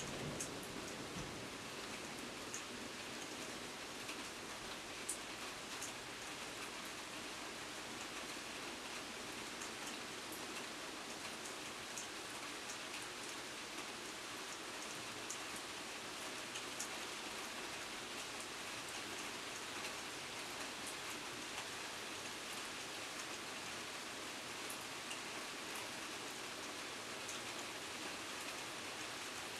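Steady rain falling, with scattered single drops tapping close by. The last of a thunder rumble fades out in the first second.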